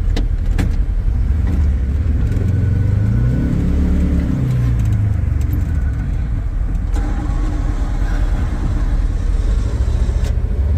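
Vehicle engine running with a steady low rumble. It revs up about two and a half seconds in and eases back down a couple of seconds later.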